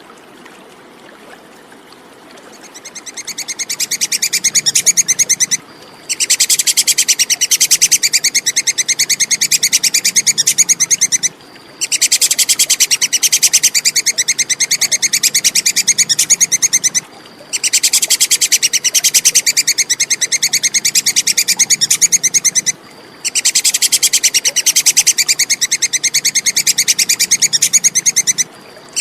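Tupai kekes (small squirrel) giving its fast, rapid-fire chattering call. The call comes in bouts of about five seconds each with brief pauses between them, and fades in after a couple of seconds of faint background noise.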